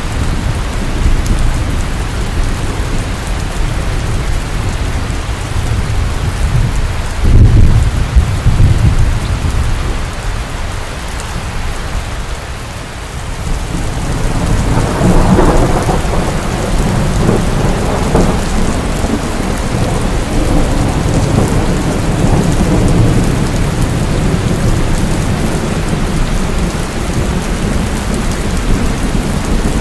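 Steady rain with thunder: a loud low rumble about seven seconds in, then a long rolling rumble through the middle.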